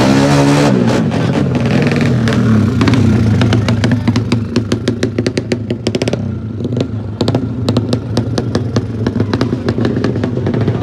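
Motorcycle engine, its pitch sweeping sharply in the first second, then running steadily. Through the second half there are many quick sharp clicks and clattering.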